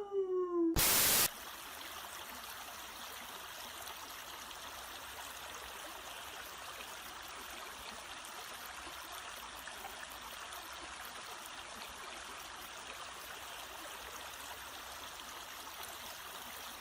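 A howl trails off, a short loud burst of noise about a second in, then a steady, even rush of running water.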